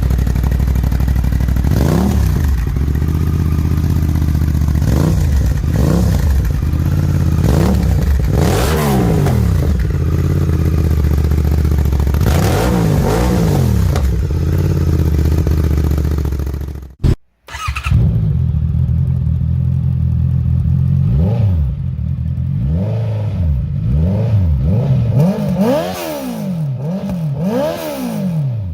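Sport motorcycle engine and exhaust running hard, a steady drone with repeated rises and falls in pitch. It cuts out abruptly about 17 seconds in, then the engine revs up and down again and again, more quickly near the end.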